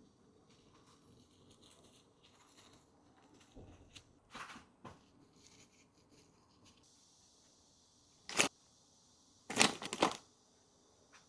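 A few short rustling and knocking handling noises from kitchen items being moved: a small cluster about four seconds in, then two louder ones near the end.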